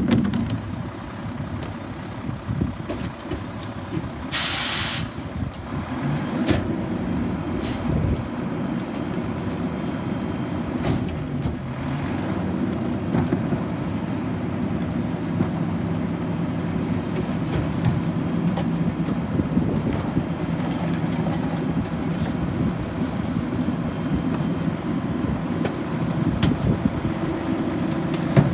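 Garbage truck engine running, with a short, sharp hiss of air brakes about four seconds in. The engine gets louder from about six seconds on.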